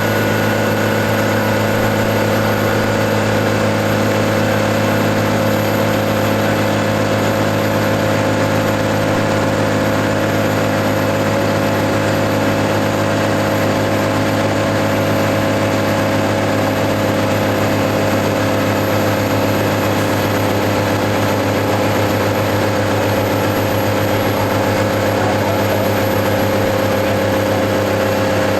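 New Holland T6080 tractor engine running at a steady, unchanging speed while driving a PTO dynamometer under load during a power test.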